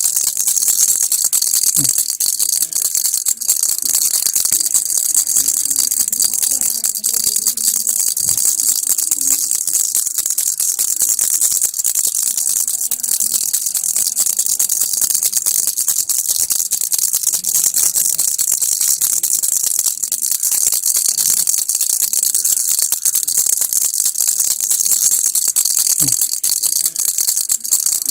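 Baby rattle (kilukki) shaken without a break: a dense, even, high-pitched rattle of small beads inside the toy.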